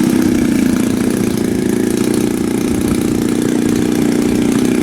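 50cc two-stroke gasoline engine of a large RC model airplane idling steadily, an idle the pilots judge a little high.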